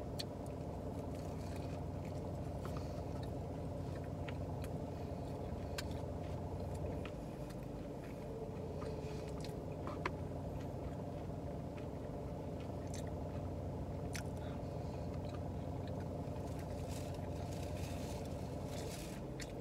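Chewing and biting into a falafel pita sandwich, heard as scattered short, sharp mouth clicks and smacks over a steady low hum inside the car.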